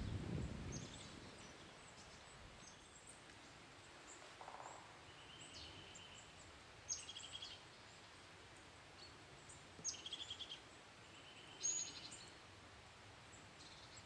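Small songbirds calling faintly: a handful of short high chirps and brief trills, spread out over a quiet, steady background hiss. A low rumble fades away in the first second.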